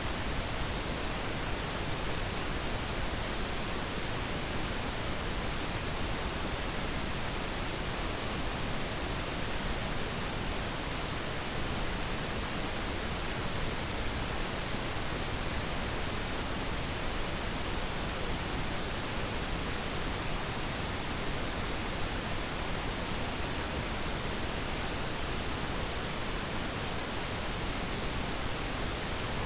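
Steady synthetic pink noise: an even, unchanging hiss that fills the whole range from low rumble to high treble, with no other sound.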